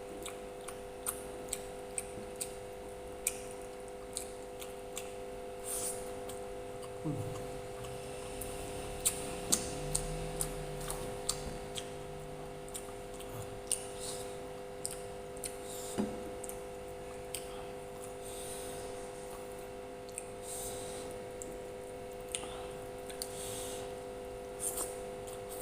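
Eating sounds: chewing and wet mouth sounds with frequent sharp clicks, over a steady hum.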